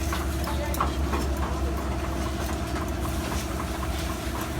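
A steady low mechanical hum, with faint scattered ticks over it.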